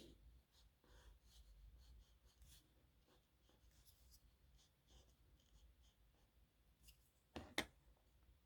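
Nib pen scratching faintly on paper in short strokes, with two sharp taps close together near the end.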